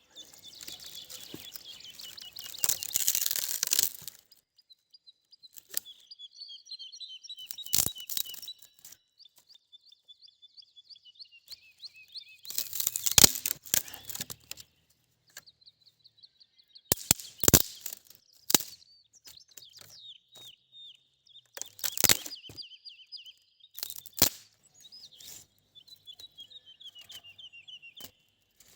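A songbird singing repeated short, descending trills. Sharp close cracks and rustling break in several times, the loudest of them louder than the song.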